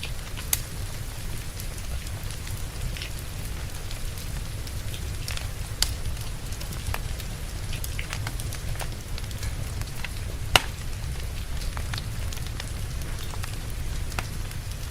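Wood fire crackling, with scattered sharp pops over a steady low rumble and the hiss of rain; the loudest pop comes about ten seconds in.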